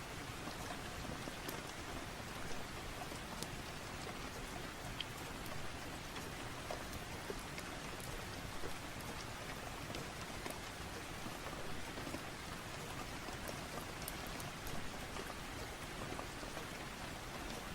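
Steady rain, an even hiss with scattered sharp little ticks.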